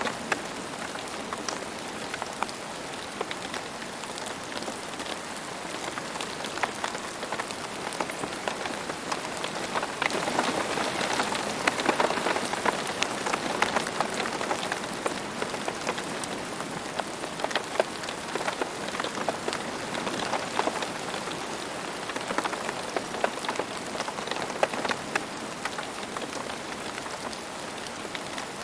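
Steady rain falling, with many separate drop hits standing out against a constant hiss; it grows a little heavier about ten seconds in, then eases back.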